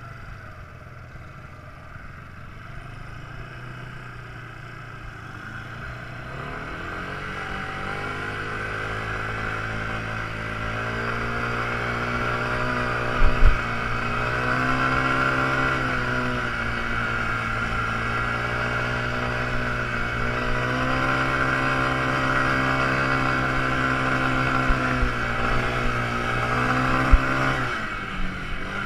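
Quad bike engine running under throttle, growing louder from about six seconds in, its pitch rising and falling as it speeds up and eases off. There are a couple of short sharp knocks, one near the middle and one near the end.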